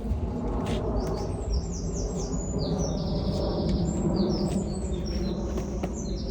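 A songbird singing a fast run of short, varied high notes, starting about a second in, over a steady low rumble.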